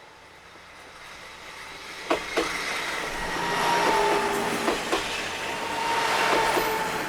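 Diesel railcar passing close by, growing louder as it comes. Its wheels click over rail joints in pairs three times, over a steady whining tone.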